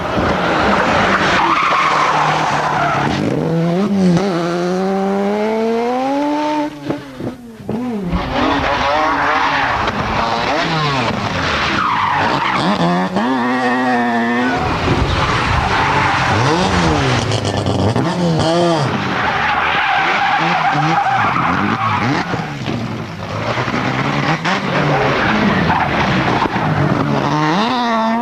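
Mazda RX-7 Group B rally car's two-rotor rotary engine driven hard, its pitch climbing under acceleration and dropping sharply at gear changes and lifts, again and again, over constant tyre and road noise.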